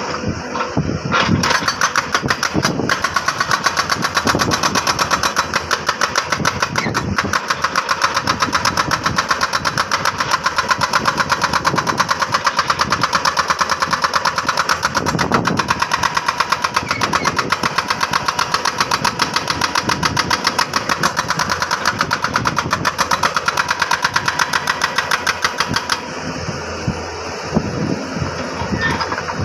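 Jackhammer pounding hard rock in a rapid, even rhythm of blows. It starts about a second in and stops a few seconds before the end, leaving a quieter steady mechanical running sound.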